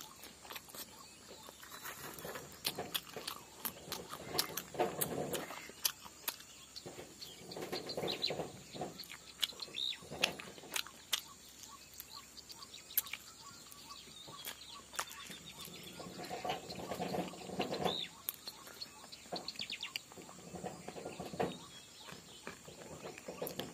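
A person biting into and chewing pumpkin close to the microphone, with many small mouth clicks and smacks and a rougher chewing sound every few seconds.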